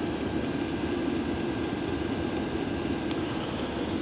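Chinese parking air heater running steadily just after start-up: an even whooshing drone of its blower fan and burner.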